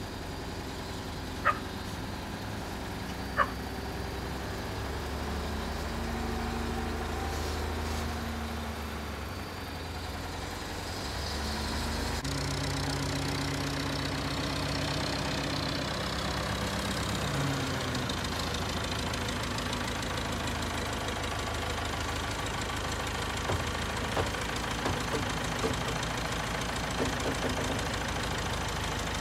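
An engine running steadily, its pitch stepping up and down between about 6 and 18 seconds in as the revs change, with a few sharp knocks in the first few seconds.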